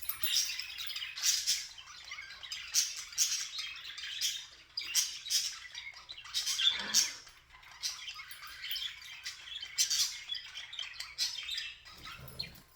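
Budgerigar chirping and squawking repeatedly in quick, short, high calls.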